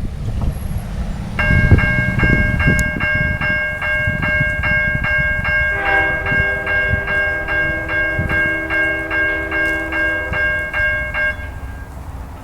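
A railroad grade-crossing bell rings steadily at about three to four strokes a second. About six seconds in, the approaching Amtrak train's horn joins it as a held chord for about five seconds, over a low rumble.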